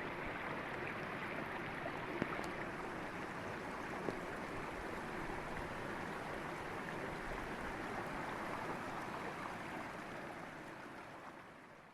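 River water flowing steadily over rocks, with a couple of faint clicks; it fades out near the end.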